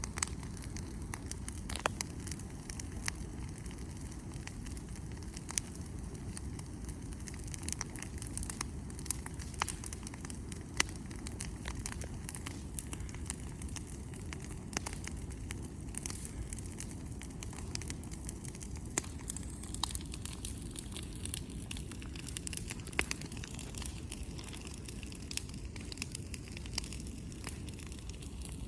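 Wood bonfire burning, crackling with irregular sharp pops and snaps over a steady low rumble.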